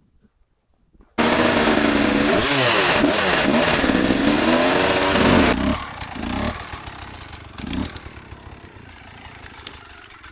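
Enduro motorcycle engine revving hard, cutting in abruptly about a second in with its pitch rising and falling. After about four more seconds it drops to a quieter running sound with a few short throttle blips.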